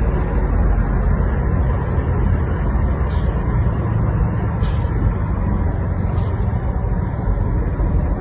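Steady running rumble of a train, heard from inside the carriage while it moves, with three faint high ticks about a second and a half apart.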